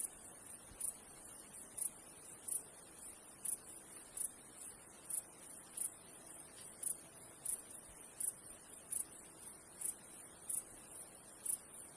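High-pitched chirping from a small animal, repeating steadily at about three chirps a second, over a faint, even background hiss of running river water.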